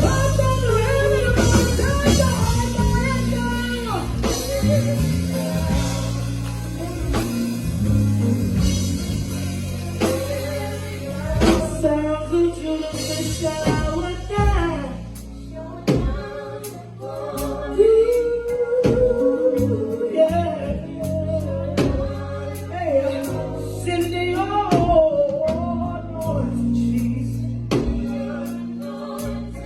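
Live gospel worship music: singing over electric guitar and a drum kit.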